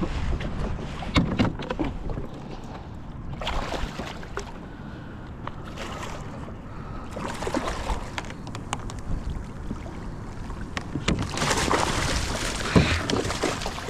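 Water splashing and sloshing around a kayak, with scattered clicks and knocks and wind on the microphone, as a large flounder is brought to the boat.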